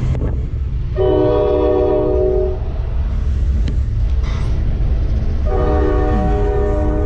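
Train horn sounding two long blasts, each a chord of several tones lasting about a second and a half, over a steady low engine rumble.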